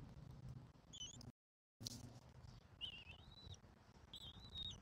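Faint, thin, high-pitched bird calls over a low background hum: a short call about a second in, then two drawn-out calls, each wavering and then holding steady, in the second half. The sound drops out entirely for about half a second after the first call.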